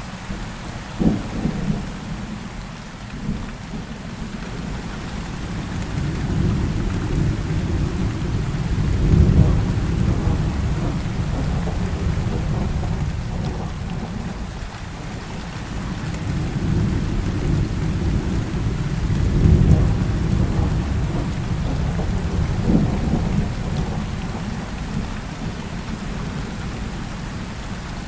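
Heavy rain falling steadily, with thunder rolling through it. A sharp crack comes about a second in, then long low rumbles swell and fade twice, loudest about nine and twenty seconds in, and another crack follows near the end.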